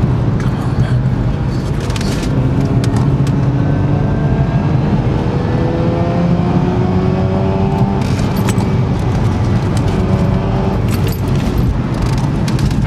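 Mazda RX-8's two-rotor Wankel rotary engine heard from inside the cabin under load, its pitch rising slowly as it pulls, then rising again from about eight seconds in, over road and wind noise. Short rattling clicks come and go.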